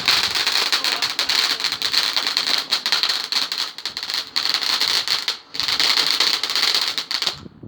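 A ground firework fountain spraying sparks: a loud, dense hiss of rapid crackles, broken off briefly about five and a half seconds in and cut off suddenly near the end.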